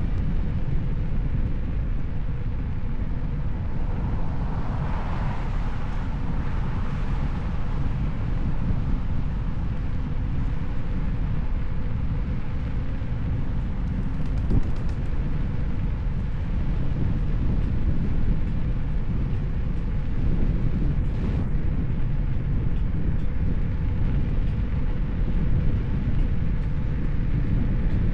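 Wind buffeting the camera microphone and road rumble while riding an electric unicycle, a steady low noise with a faint steady hum. A louder swell of noise rises and fades about five seconds in.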